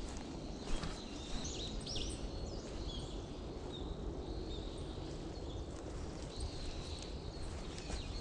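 Footsteps of a person walking on a woodland path, with small birds giving short, high chirps and twitters.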